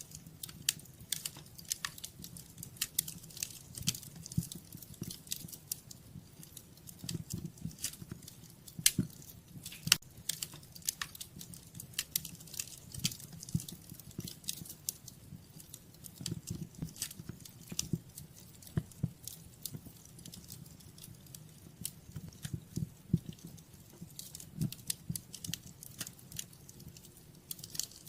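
Wood fire in a fireplace crackling, with irregular sharp pops and snaps over a low, steady rumble of the flames; two louder pops come about nine and ten seconds in.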